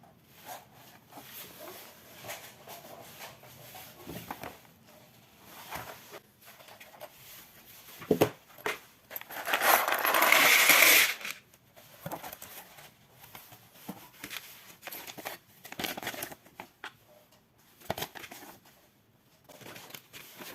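Plastic Lego pieces clicking and clattering as they are handled. About halfway through, there is a louder rattle of loose pieces lasting about two seconds.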